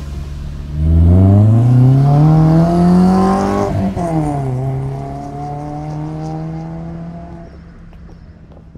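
Volkswagen Gol 1.6 EA-111 four-cylinder engine with a custom sports exhaust, pulling away hard: it revs up steeply for about three seconds, breaks briefly at a gear change about four seconds in, then runs steadier at a lower pitch and fades as the car drives off.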